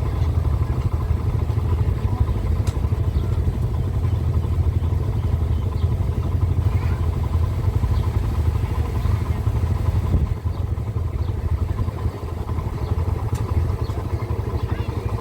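Small-displacement motorcycle engine running steadily, a continuous low drone that eases slightly about ten seconds in.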